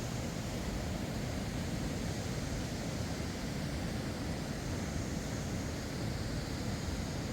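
A mountain river rushing, a steady even noise of flowing water with no breaks.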